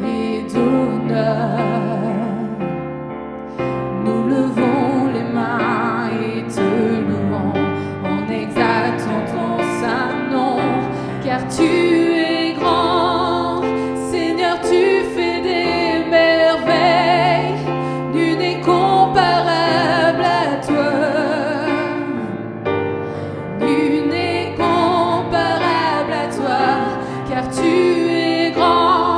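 Two women singing a slow gospel worship song, their sustained notes wavering with vibrato, over held keyboard chords and bass notes.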